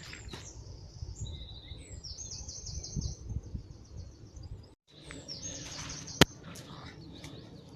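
Songbirds singing, with fast high trills repeated several times. A single sharp click sounds a little after six seconds in.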